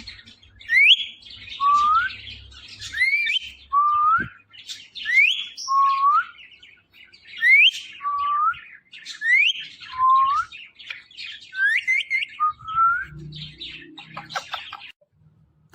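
Ringneck parrot whistling a repeated two-part call, a high upward whistle followed by a lower rising note, about every two seconds, seven times over; quicker chirps and clicks near the end.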